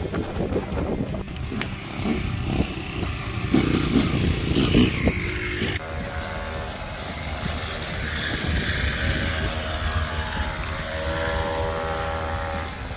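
SYX Moto kids' dirt bike's 50cc two-stroke engine running. Its pitched engine note stands out clearly from about halfway through and drifts gently up and down with the throttle.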